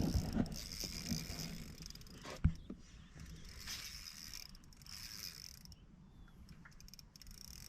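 Fishing reel's drag buzzing in spells as a big grunter pulls line off during the fight, with one sharp knock about two and a half seconds in.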